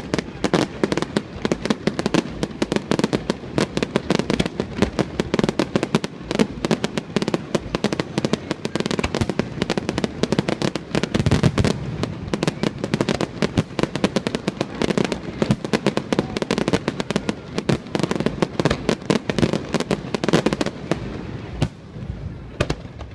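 Fireworks display: a rapid, continuous barrage of bursts and crackles, many reports a second, thinning out near the end.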